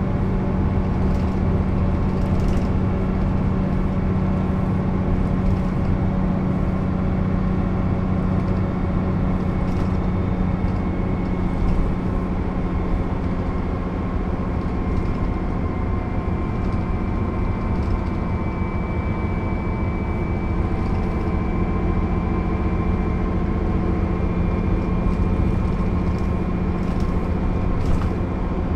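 Mercedes-Benz O 407 city bus's straight-six diesel engine running steadily while the bus is under way, with a low engine drone that eases off about halfway through and a faint high whine in the second half.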